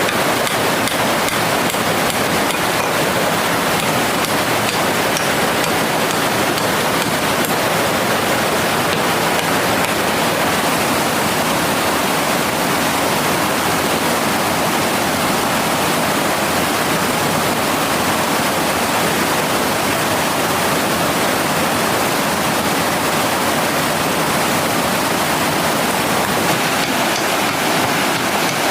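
Mountain stream water rushing steadily, a loud even rush with no breaks.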